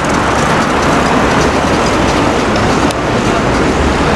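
City street traffic noise: a steady, loud wash of passing vehicles with a low rumble.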